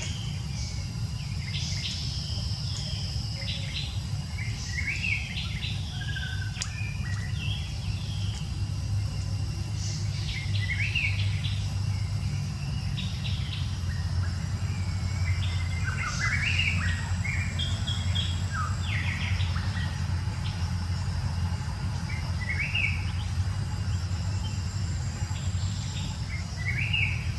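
Birds chirping in short, scattered calls, some sliding in pitch, over a steady low rumble.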